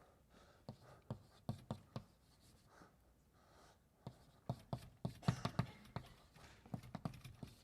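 Chalk writing on a blackboard: a run of irregular sharp taps and short scrapes as a formula is written, busiest in the second half.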